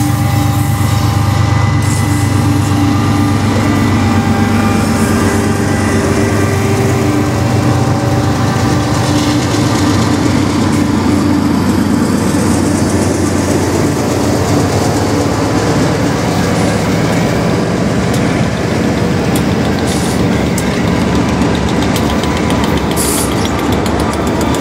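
A string of diesel freight locomotives passing close by: their engines running under load, with steel wheels rolling on the rails in a steady loud rumble.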